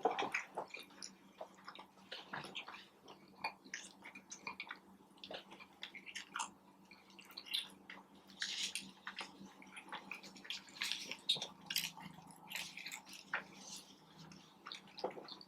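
Close-up chewing and mouth sounds of someone eating a fast-food sandwich: irregular wet smacks and small crunches, busier in a couple of stretches toward the middle and later part.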